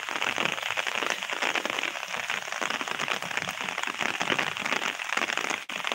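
Steady rain falling: a dense, even patter of drops that breaks off for an instant near the end.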